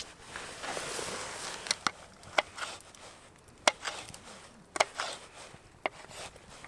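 A blade chopping against wood: about six sharp, irregularly spaced knocks, with a stretch of rustling before them.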